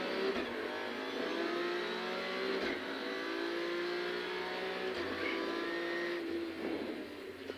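Rally car engine heard from inside the cabin, pulling hard along a straight. Its note climbs through the gears, with breaks at the upshifts about a third and two thirds of the way through, and it eases off near the end.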